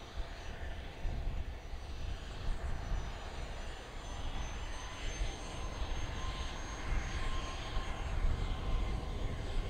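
Jet aircraft engines running steadily at low power, a constant rumble with a thin, high, steady whine.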